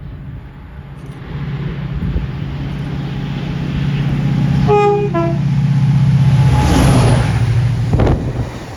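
Train passing, its low rumble building up; about five seconds in it sounds a short two-tone horn, a high note then a lower one. The passing noise peaks around seven seconds and drops off sharply just after eight.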